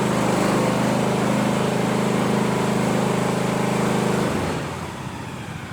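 Mini skid steer engine running steadily, then dropping to a quieter, lower sound about four seconds in.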